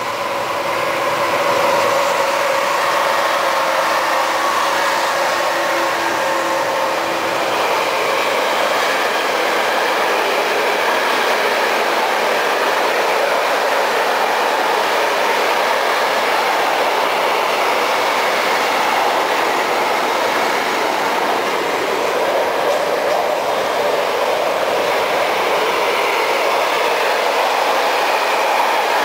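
Train passing close by on the rails: a steady, loud run of wheel and rail noise that swells in the first two seconds and holds, with a whine over it for the first several seconds that then fades.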